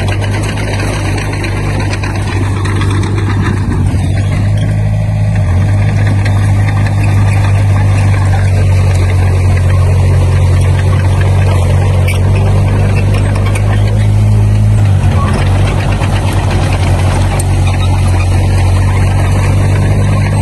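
Diesel engine of a Komatsu D20P bulldozer running steadily, with dense mechanical noise over it; the engine note shifts briefly about fifteen seconds in.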